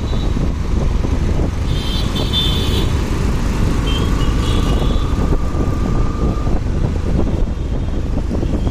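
Motorcycle ride through road traffic: steady engine and wind rumble, with short high-pitched tones about two seconds and four seconds in.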